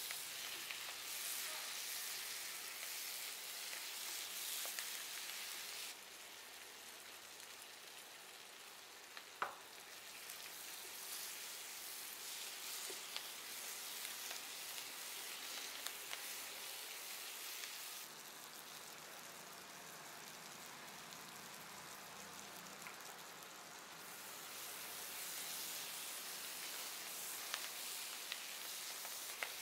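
Chopped tomatoes, chives and onions sizzling in hot oil in a pot as they are stirred with a wooden spatula, the sizzle dropping and rising in level a few times. A single sharp knock about nine seconds in.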